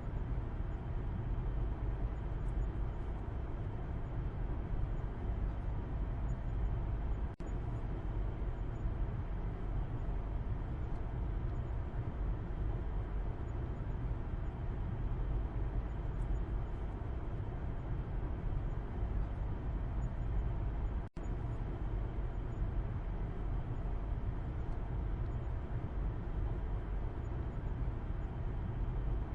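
Steady low road-and-engine rumble of a car driving, heard from the back seat inside the cabin. The level stays even, with two very short drop-outs about 7 and 21 seconds in.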